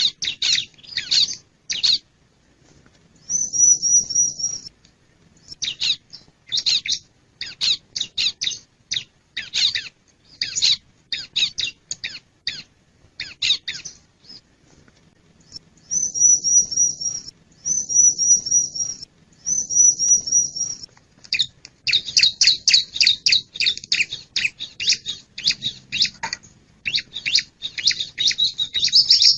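Bar-winged prinia singing: rapid runs of sharp, high chirps broken by short pauses. A few even, high trills about a second long come in between, one early and three in a row in the middle.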